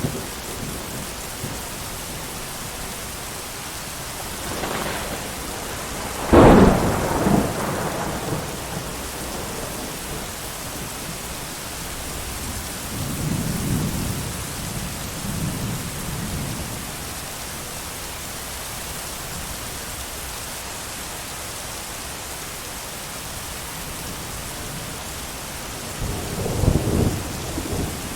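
Steady heavy rain with thunder: a sharp thunderclap about six seconds in that rumbles away, softer low rumbles midway, and another rumble building near the end.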